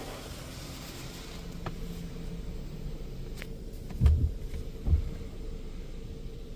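Washworld Razor touchless car wash running its pre-soak cycle, heard from inside the car: a steady low hum, with a hiss of spray that fades out in the first second or so. Two low thumps come about a second apart, about two-thirds of the way through.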